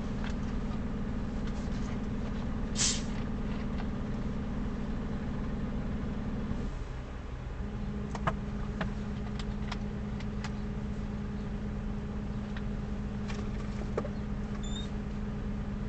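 Vehicle engine idling steadily, heard from inside the cabin while stopped in traffic, its hum dipping briefly about seven seconds in before settling back. A short hiss comes about three seconds in, with a few light clicks scattered through.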